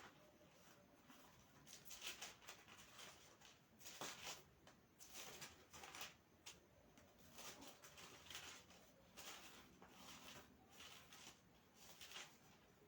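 Near silence with faint, scattered rustles and soft scrapes about once or twice a second.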